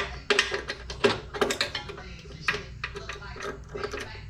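Irregular metallic clinks and clicks of hand tools working bolts on a wood chipper's steel housing.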